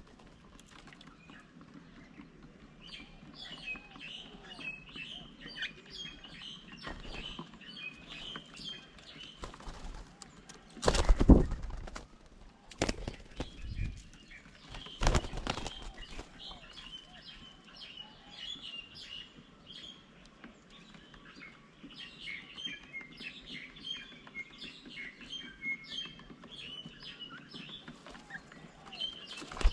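Small birds chirping over and over, many quick high notes. A few loud, brief bumps break in, the first about a third of the way through and the last about halfway.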